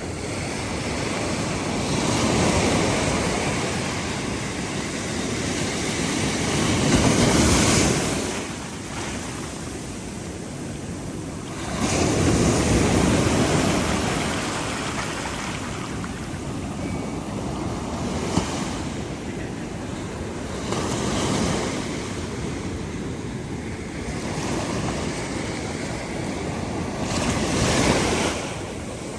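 Ocean surf breaking on a beach: the wash of the waves swells and falls back every few seconds, with the biggest breakers about 7, 13 and 28 seconds in.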